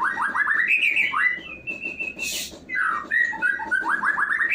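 Caged songbird singing loudly: quick runs of falling whistled notes and held higher notes, repeated in phrases, with a short hiss about two seconds in.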